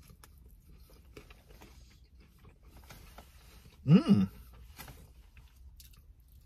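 Faint chewing and wet mouth noises from a man eating a sauced boneless chicken wing. About four seconds in comes a loud, two-part closed-mouth "mmm" hum.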